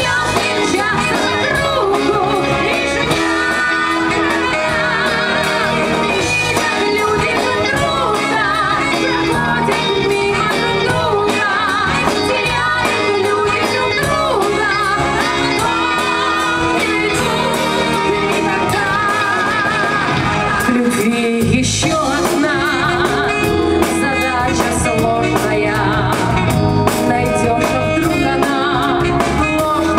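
A woman singing a song with instrumental backing; her voice wavers with vibrato on held notes.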